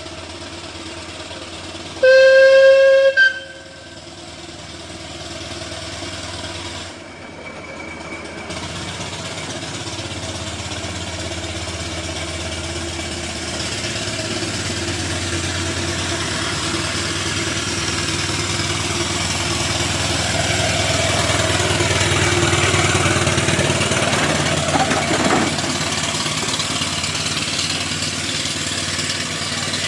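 6-inch-scale Savage Little Samson steam tractor: its steam whistle is blown once for just over a second, then the engine works steadily uphill, growing louder as it comes closer.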